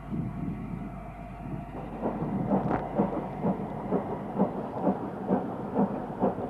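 Steam locomotive exhaust beats: after a low rumble, a steady chuffing starts about two seconds in at roughly two beats a second and grows louder.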